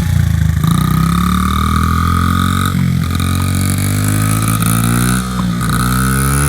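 Dirt bike engine accelerating, its pitch climbing and then dropping twice as the rider shifts up through the gears.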